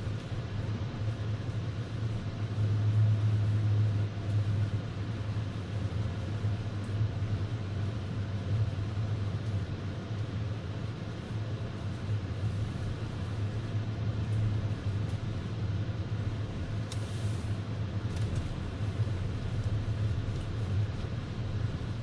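Car road noise heard from inside the cabin while driving on a snow-covered highway: a steady low rumble of engine and tyres, a little louder for a second or two a few seconds in.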